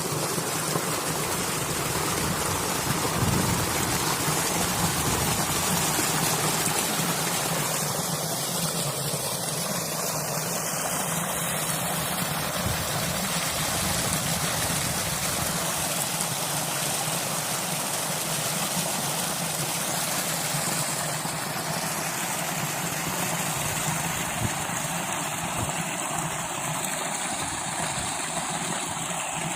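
Water rushing and splashing in a steady, unbroken stream.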